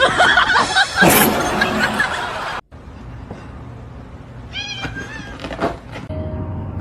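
Cat meowing, heard in two short clips with a sudden cut between them about two and a half seconds in.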